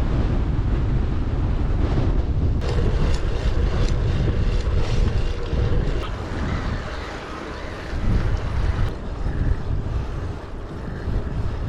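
Wind buffeting the microphone in a heavy, steady rumble, easing a little about two-thirds of the way through, with a few faint clicks.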